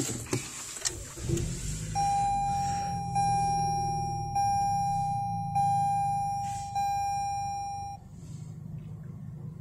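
2021 Lexus ES250's 2.5-litre four-cylinder engine started by push button, catching about a second in and settling into a low, quiet idle heard from inside the cabin. Over it the dashboard warning chime rings five times, about one every second and a quarter, each ring fading, and stops near the end.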